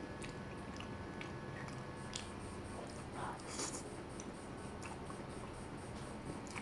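A person chewing soft grilled eggplant close to the microphone: small wet mouth clicks, with one louder burst of mouth noise about three seconds in.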